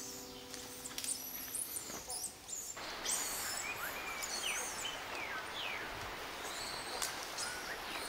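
Tropical forest ambience: several birds calling with short chirps and gliding whistled notes over a steady background hiss, which grows louder about three seconds in.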